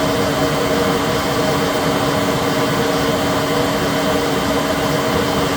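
Sub spindle of a Citizen L20 Swiss-type CNC lathe spinning at 7,000 RPM: a steady machine hum with several steady tones. It runs smoothly and sounds very good, with no sign of trouble.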